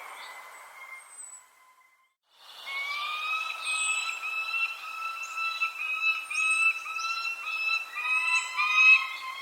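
Small birds chirping in short, high, falling notes over a long, steady whistle-like tone that wavers slightly in pitch. The sound cuts out completely for a moment about two seconds in, then resumes.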